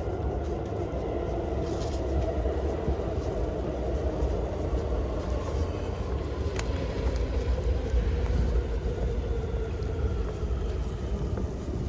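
A vehicle engine running nearby, its pitch slowly falling, over a low rumble of wind buffeting the microphone.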